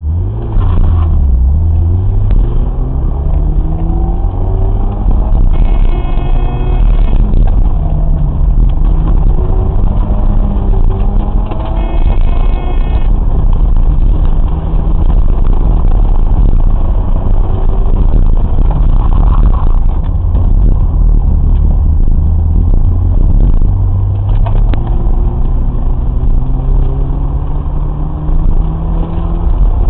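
Car engine heard from inside the cabin, repeatedly accelerating and easing off through a cone course, its pitch climbing and dropping with each burst of throttle. Two short high squeals come at about six and twelve seconds in.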